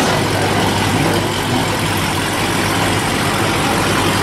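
Nissan Maxima's 3.5-litre V6 idling as the car rolls slowly by, a steady low engine hum.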